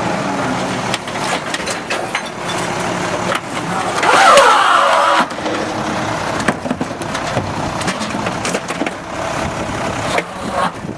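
Automated side-load garbage truck at work: its diesel engine running, with knocks and clatter and a loud, pitch-gliding squeal about four seconds in that lasts just over a second.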